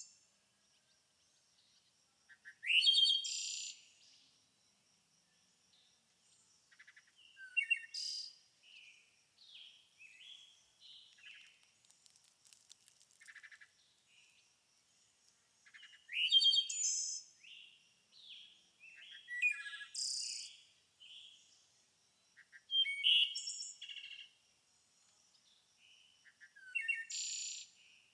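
Songbirds singing: loud chirping song phrases every few seconds, with softer chirps and twitters in between.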